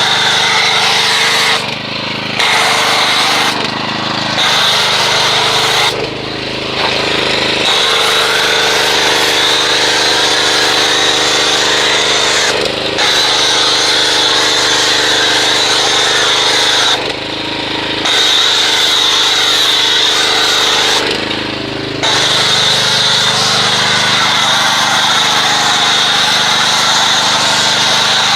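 Engine-driven pressure washer running and spraying water in long bursts. The spray cuts out briefly about five times as the trigger is released, and the engine note shifts each time.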